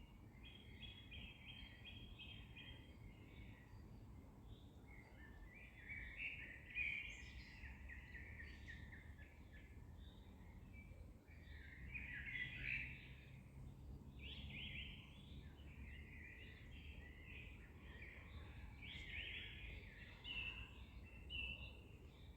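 Several songbirds singing, with chirps and rapid trills coming again and again, over a faint low background rumble.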